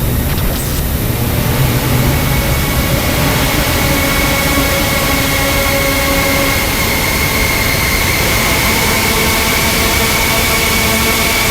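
Dark ambient industrial drone: a dense wall of noise over a low rumble, with several steady held tones settling in about two seconds in, the highest one the clearest.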